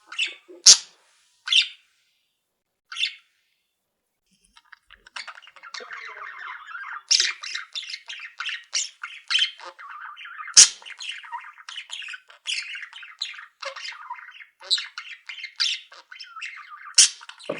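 Pet budgerigars calling: a few sharp squawks at the start, a short lull, then from about five seconds in a steady warbling chatter with loud sharp squawks breaking through every second or so.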